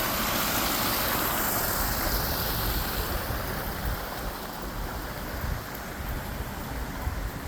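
Wind rumbling on the microphone over a steady rushing noise, which eases slightly after about three seconds.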